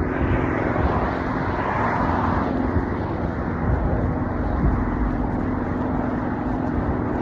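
Steady wind rumble on the microphone of a camera riding along on a moving bicycle, with road traffic noise mixed in.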